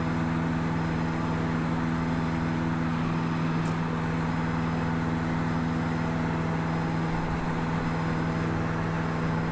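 Cessna 152's four-cylinder piston engine and propeller running at full takeoff power, a steady unchanging drone during the takeoff roll.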